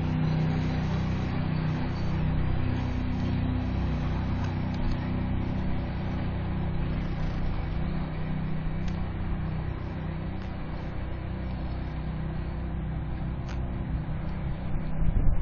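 A motor engine running steadily with a low hum, easing off slightly in loudness toward the end.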